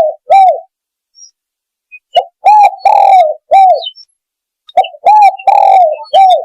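Spotted dove cooing as a lure call, loud and close: a phrase ends just at the start, then two full phrases of a short note, two rising-and-falling coos, a longer rough coo and a final falling coo, about two and a half seconds apart.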